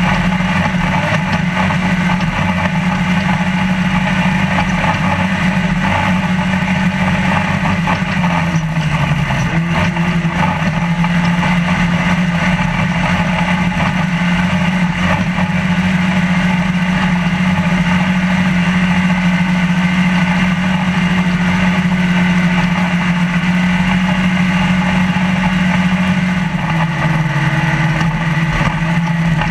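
Trophylite off-road race truck's engine running hard at a steady high pitch, heard from inside the cab with the rattle of the truck over desert terrain. The engine pitch drops briefly twice, about a third of the way in and near the end, as the truck shifts or eases off the throttle.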